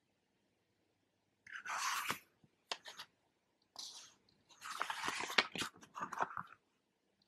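Sheet of paper being handled and folded, crinkling in about four bursts, the longest near the end.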